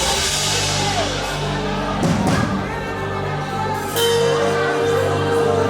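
Live worship music: sustained keyboard or pad chords with a singing voice, a new held note coming in about four seconds in.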